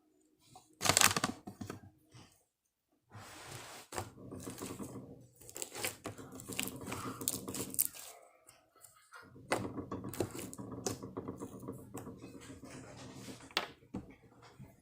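Slime being worked by hand, giving irregular clicking and crackling sounds, with a loud burst about a second in.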